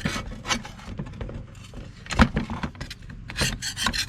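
A small hand brush scrubbing paint-remover-softened paint off an old tool in quick, irregular scratchy strokes, with a louder stroke about halfway through.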